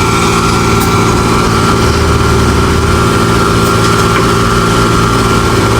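Engine of heavy road-construction machinery running steadily at an unchanging speed, a loud, even hum.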